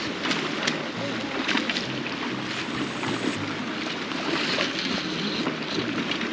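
Fast river water rushing steadily along the bank, with many small splashes, and wind buffeting the microphone.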